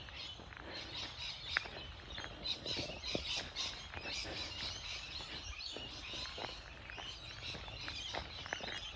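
Birds chattering and chirping in the bush, rainbow lorikeets among them, in a steady scatter of short high calls, with a few faint ticks.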